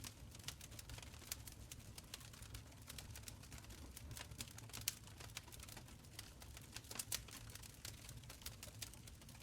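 Wood fire crackling in a stone fireplace: many quick, irregular snaps and pops over a faint steady low rumble of the flames.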